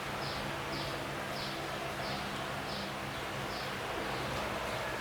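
A short, high, falling chirp repeating steadily about every 0.7 seconds, typical of a calling bird or insect, over a faint steady low hum.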